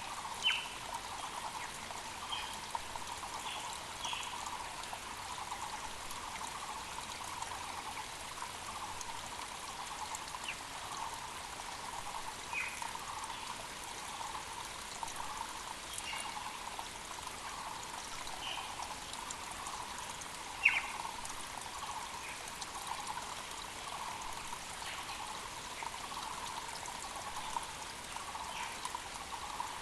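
Small mountain creek trickling and babbling steadily, with scattered short high-pitched sounds over it. Two of these are louder: one about half a second in and one about 21 seconds in.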